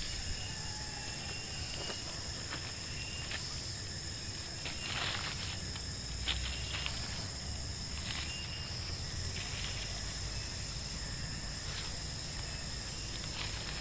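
Night forest ambience: a steady, high-pitched insect chorus, with scattered short chirps and clicks from other small animals.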